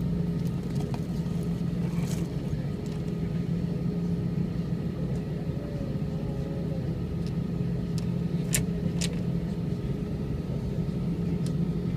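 Airbus A320's jet engines running, a steady hum holding one pitch. Two sharp clicks come a little past the middle, about half a second apart.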